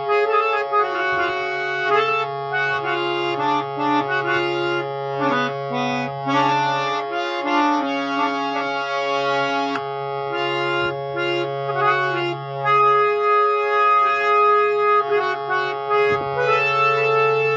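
A sixty-year-old full-size harmonium playing a melody in sustained reedy notes over a held low drone. The drone drops out for a couple of seconds partway through.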